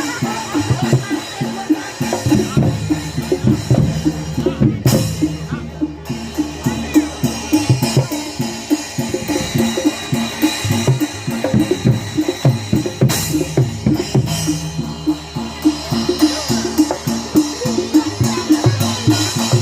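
Live Javanese Barongan Blora accompaniment: a gamelan-style ensemble led by hand drums playing a fast, steady beat over sustained low pitched tones, with two sharp hits standing out about five and thirteen seconds in.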